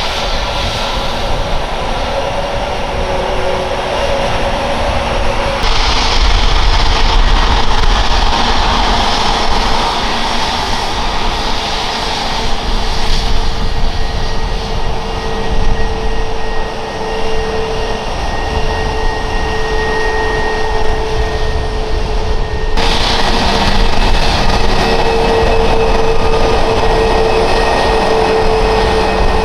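Jet airliner engines running at high power: a loud, continuous noise with a steady high whine. The sound changes abruptly about six seconds in and again about 23 seconds in.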